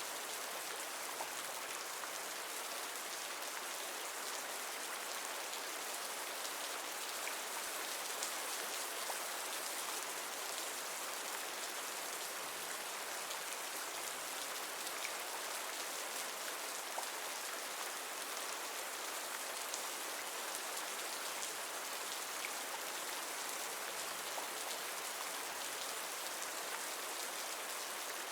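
Steady rainfall: an even hiss of rain with scattered small drop ticks, unchanging throughout.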